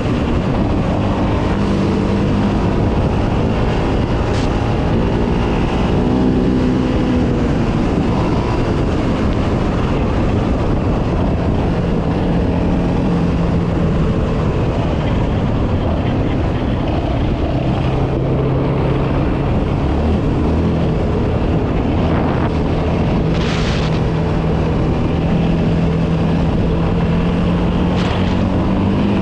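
Yamaha Raptor 700R quad's single-cylinder engine running under way, its pitch rising and falling with the throttle, over a steady rush of wind and riding noise.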